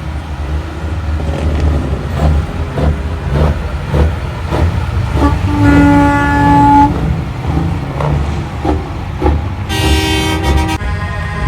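Semi-truck air horns blowing twice over the low rumble of big-rig engines. The first blast lasts about a second, about halfway through. The second is shorter and brighter, near the end.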